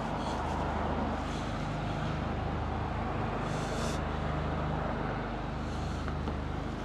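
An engine running steadily at a constant speed, a low, even hum with street noise over it.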